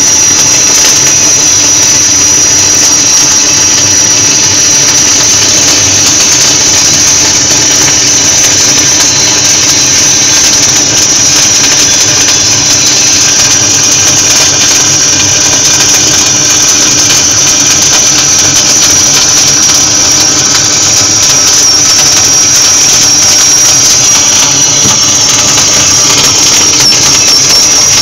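Gas-shielded flux-cored arc welding: the arc's continuous crackle and hiss, with a steady high-pitched whine over it.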